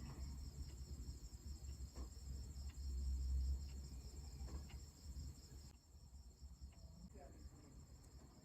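Crickets chirping steadily in a fast, even trill over a low rumble, with a few faint clicks; the chirping drops away about two-thirds of the way through.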